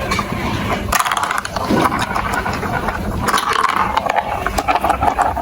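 Marbles rolling and clattering along plastic marble-run building-block tracks: a continuous rolling rattle with many small clicks.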